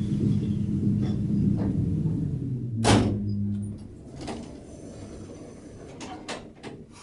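Express Lift Co baggage lift running with a low rumble and hum, typical of its bad bearings, then a loud clunk about three seconds in; the running sound dies away a second later, followed by a few lighter clicks and knocks.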